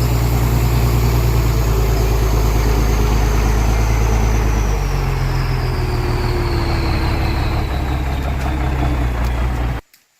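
Heavy truck engine running loudly, its pitch dropping a step about five seconds in, with a faint high whine sliding slowly downward. The sound cuts off suddenly near the end.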